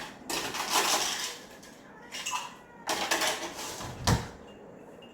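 Tableware handled on a table: two spells of clattering and scraping, ending in a single low knock about four seconds in, as of a cup or plate set down.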